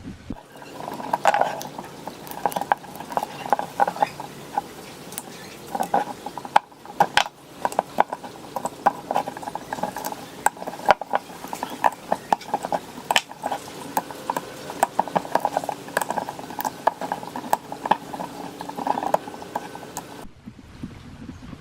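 Hand tools working on small metal fan parts: irregular clicks, knocks and scrapes of metal on metal.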